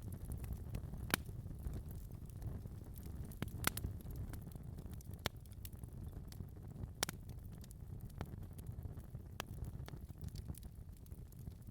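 Wood fire crackling in a fireplace: sharp pops every second or so over a steady low rumble of the flames.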